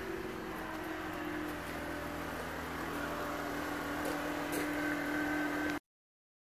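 A steady mechanical hum with a faint steady tone running through it, which cuts off abruptly near the end.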